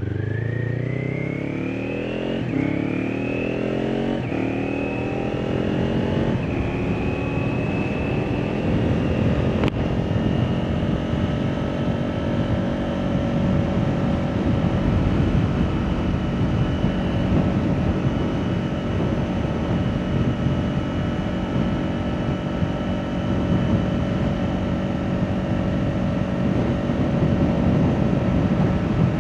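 Kawasaki Ninja 400 parallel-twin through an Akrapovič exhaust, accelerating through the gears: the engine note climbs and drops back at each of three upshifts in the first six seconds, then holds steady at a cruise. A single sharp click about ten seconds in.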